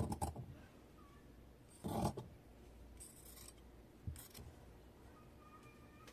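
Scissors cutting in a few short separate strokes: one at the start, then others about two, three and four seconds in.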